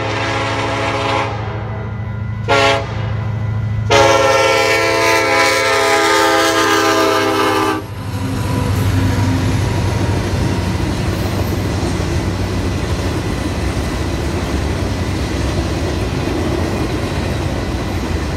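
Freight train locomotive horn at a grade crossing: a blast ending about a second in, a short blast, then a long blast of about four seconds, the close of the crossing warning sequence. After it, the steady noise of the freight cars' wheels on the rails as the boxcars pass.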